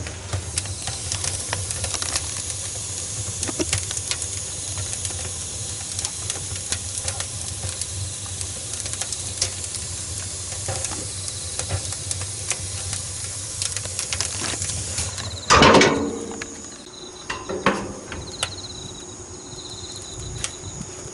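Oak firewood burning in an updraft wood stove: a steady hiss with frequent small crackles over a low rumble of draft. About fifteen seconds in there is one loud knock with a short ring, after which the fire sounds quieter.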